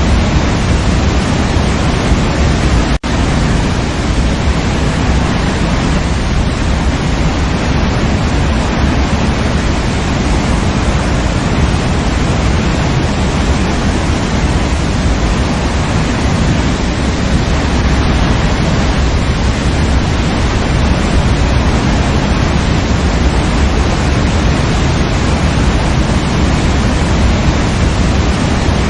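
Waterfall rushing in a steady, loud, even roar of falling water, heaviest in the low end. It drops out for a split second about three seconds in, then carries on unchanged.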